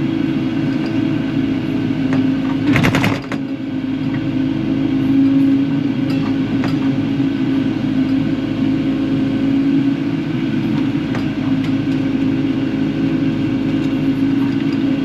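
Kubota KX080-4 excavator's diesel engine running steadily while digging. A brief loud rattling clatter comes about three seconds in.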